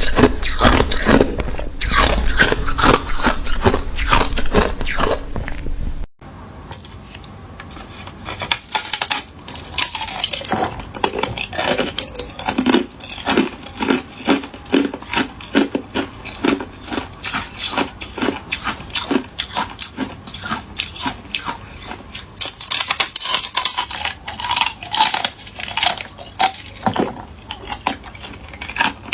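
Hard ice cubes bitten and chewed close to the microphone: rapid, irregular cracking and crunching with sharp clinks of ice. The level drops suddenly about six seconds in, and the crunching then goes on more quietly.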